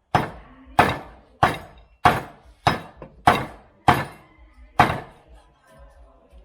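Cleaver chopping through roasted pork: eight sharp chops about two-thirds of a second apart, then stopping.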